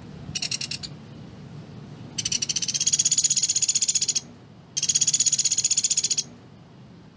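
Sunda pygmy woodpecker (pelatuk beras) giving its rapid, tightly spaced trill: one short burst, then two longer trills of about two seconds each.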